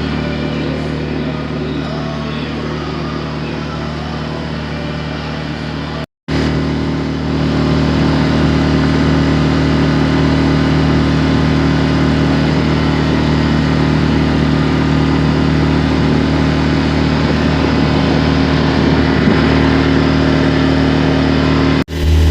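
A sailboat's engine running at a steady speed while motoring: an even, unchanging drone. It breaks off for a moment about six seconds in and comes back slightly louder.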